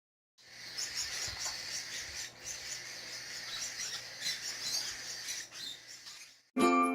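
Many baby parrots chirping together in a dense, high-pitched chatter over a faint low hum. It cuts off near the end, and ukulele music begins.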